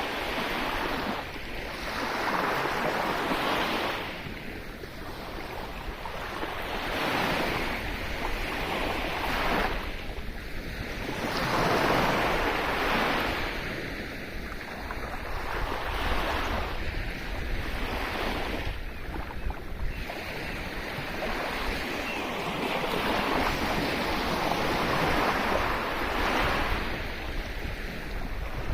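Sea waves breaking and washing up the shore, the surf swelling and receding every few seconds, with a low rumble of wind on the microphone underneath.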